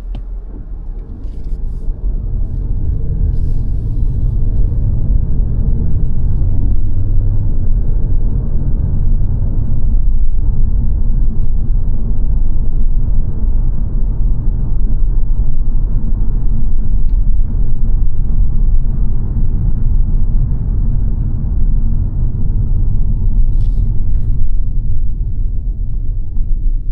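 Road and engine noise inside the cabin of a 2022 Mazda 3 saloon on the move: a steady low rumble that swells over the first few seconds as the car picks up speed, then holds even.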